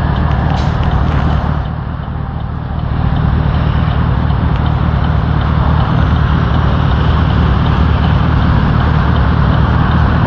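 Car engine idling, heard from inside the car as a steady low rumble that dips briefly about two seconds in.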